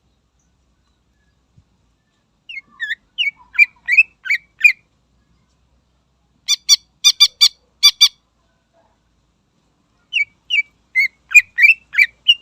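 Cucak ijo (green leafbird) singing in three bursts. A run of sliding whistled notes comes first, then a quick string of about six sharp, harsh notes, then another run of whistles.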